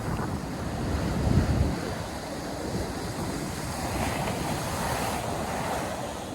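North Sea surf breaking and washing up the beach, with wind rumbling on the microphone, strongest about a second and a half in; a brighter wash of surf follows from about four seconds.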